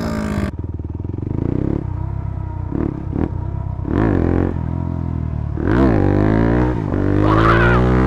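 A dirt bike engine revving hard under riding, its pitch rising and falling several times as the throttle is opened and eased off.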